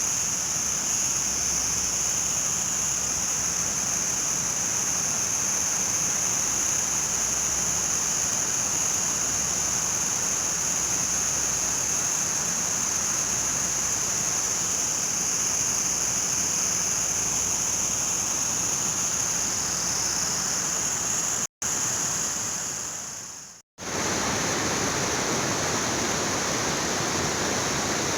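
Rushing river water, a steady loud noise, with a steady high-pitched hiss riding above it. The sound drops out twice a little after two-thirds of the way through, the second time after a short fade.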